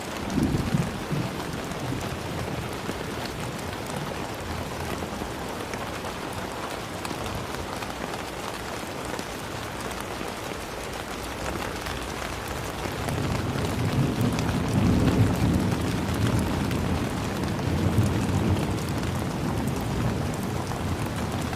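Steady rain falling throughout, with low thunder rumbling: a brief rumble right at the start and a longer rolling rumble through the second half, the loudest part.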